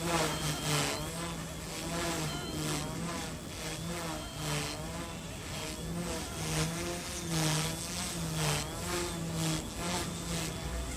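Small RC helicopter's electric motors and rotors whining and buzzing in flight, the pitch wavering up and down as the rotor speed changes, with repeated bursts of rushing air noise.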